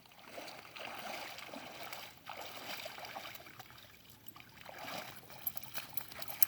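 Kayak paddle strokes through the water: a few swishing pulls with dripping and trickling in between.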